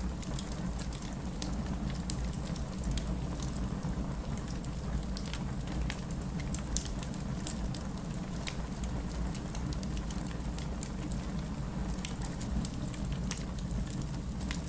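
Wood fire crackling in a fireplace: frequent sharp pops and snaps over a steady low rumble of burning logs, with one louder pop about seven seconds in.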